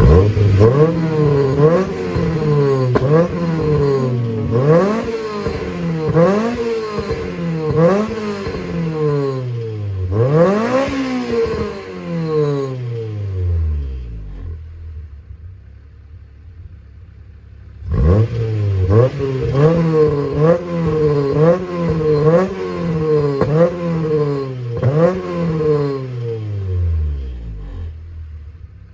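Acura Integra four-cylinder engine revved through an HKS Hi-Power cat-back exhaust in quick throttle blips, the revs shooting up and falling back about once a second. About halfway through it settles to a quieter idle for a few seconds, then goes through another run of blips and drops back to idle near the end.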